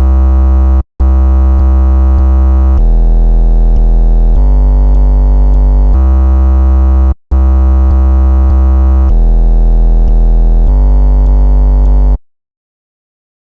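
Loud synthesizer chord loop with a heavy sub-bass, sustained chords changing about every second and a half. The loop plays through twice with a short break between, and cuts off about twelve seconds in.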